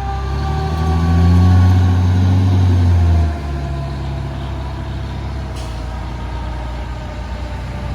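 Fire truck responding: a long, loud, low horn blast of about three seconds that cuts off sharply, over the truck's engine and a siren winding down in slowly falling tones.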